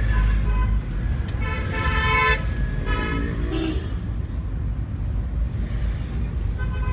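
Vehicle horns honking in traffic: one horn blast of about a second, then two shorter toots, over the steady low rumble of the car's engine and road noise inside the cabin.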